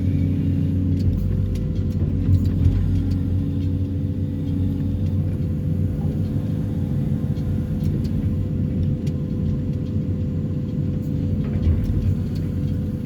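Excavator's diesel engine and hydraulics running steadily: a low, even drone with a thin steady whine above it.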